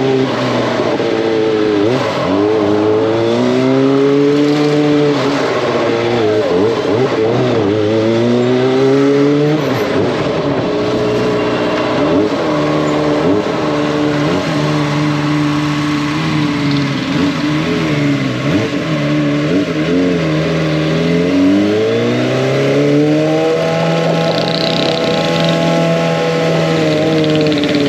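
Kawasaki ZX-25R's inline-four engine and exhaust under way, its pitch rising and falling again and again as the bike accelerates and eases off, with a longer climb in revs about three quarters of the way through.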